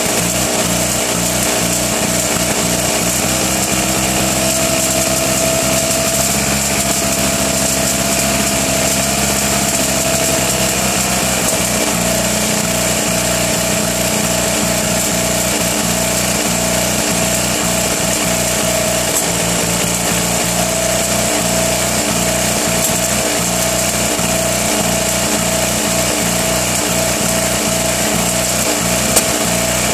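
1959 Fiat 500's 479 cc air-cooled two-cylinder engine running on a stand, freshly rebuilt with a new camshaft and lifters, and running pretty rough. Its speed wavers slightly a few seconds in, then holds steady.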